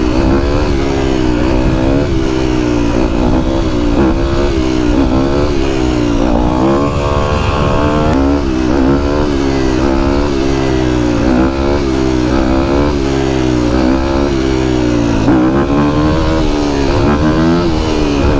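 A small vehicle engine revved up and down over and over, its pitch rising and falling about once a second.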